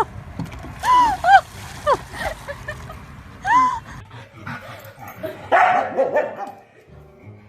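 A dog yelping and barking: several short, high calls that rise and fall in pitch in the first four seconds, then a rougher, louder stretch of sound about five and a half seconds in.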